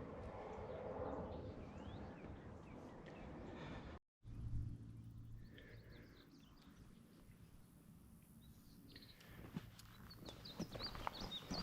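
Outdoor trail ambience: a steady wind-like rush for the first few seconds, then after a sudden cut, birds chirping. Near the end, irregular footfalls on the trail start.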